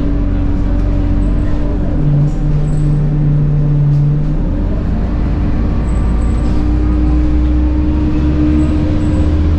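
Scania K230UB bus under way, its engine running with a steady high whine from the ZF Ecomat six-speed automatic gearbox, over low rumble; a lower tone joins for about two seconds a couple of seconds in.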